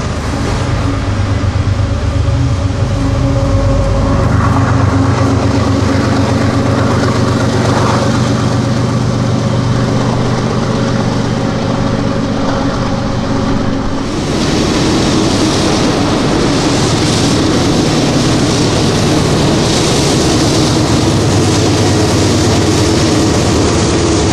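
BNSF diesel-electric freight locomotive running with a steady low drone as it pulls a train. About 14 seconds in, the sound changes to the steady noise of freight cars' steel wheels rolling past on the rails.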